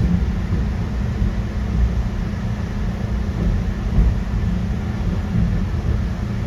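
MBTA Red Line subway train running along the track: a steady low rumble.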